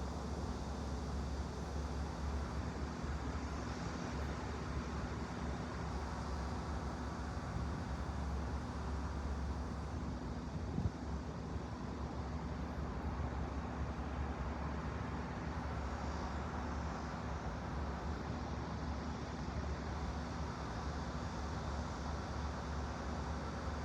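Steady low hum and hiss of white-noise background ambience, unchanging throughout, with one faint click about eleven seconds in.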